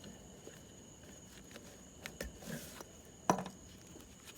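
Handling noise from small parts being fitted at a refrigerator compressor: a few light clicks about two seconds in, then one sharp click a little over three seconds in.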